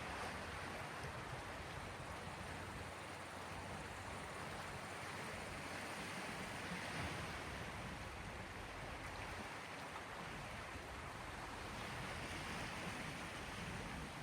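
Sea waves washing, a steady hiss of water that swells a little about seven seconds in and again near the end.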